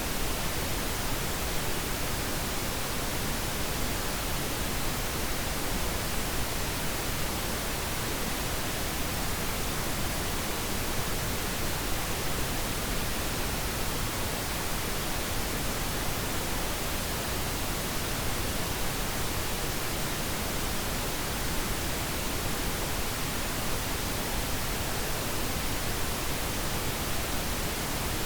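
Steady pink noise: an even, unchanging hiss across all pitches, used as a sleep sound for babies.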